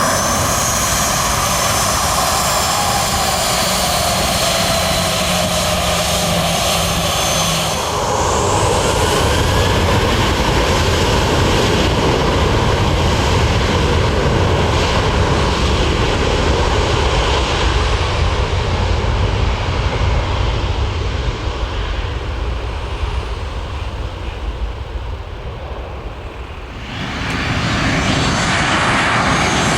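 Airliner engines running loud, with high whining tones gliding up and down in the first several seconds. The sound eases off a few seconds before the end, then surges back sharply.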